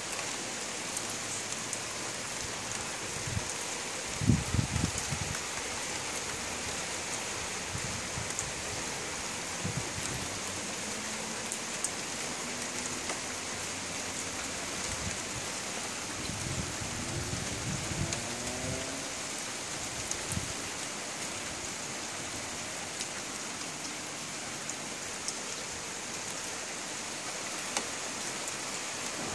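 Steady rain falling, an even hiss of rain on surfaces, with a few brief low thumps about four seconds in and again around seventeen seconds.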